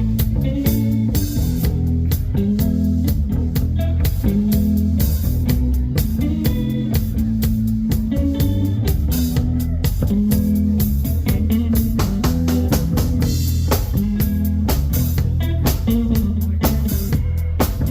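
Blues band playing: guitar over bass guitar and a drum kit keeping a steady beat.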